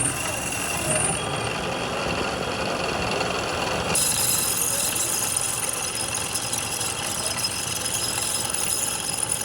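Workshop machinery running: a dense, steady mechanical noise, with a higher hiss joining about four seconds in.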